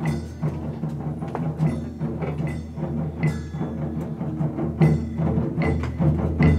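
Japanese taiko drums beaten in a fast, steady rhythm, with sharp strikes throughout.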